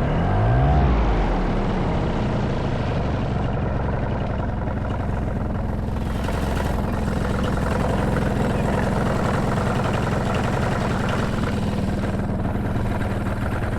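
Paramotor trike engine running at low throttle while taxiing; its pitch wavers briefly near the start, then holds steady.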